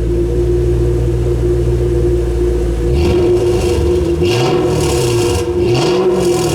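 18-series Toyota Crown Majesta V8 running through a custom EXHAUTECH exhaust built for a very high-pitched note. It idles steadily, then is revved three times in quick blips, the pitch rising and falling with each one.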